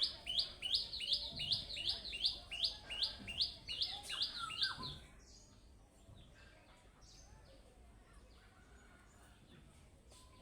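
Budgerigar giving a rapid run of repeated high chirping calls, about three a second, for about five seconds, then only faint, scattered chirps.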